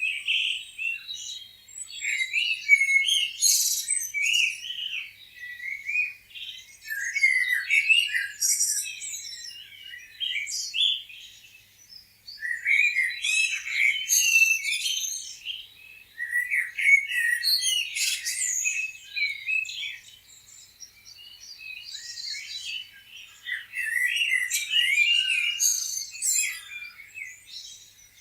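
Several small songbirds chirping and singing at once, with quick overlapping high chirps and trills. The chorus swells and fades every few seconds.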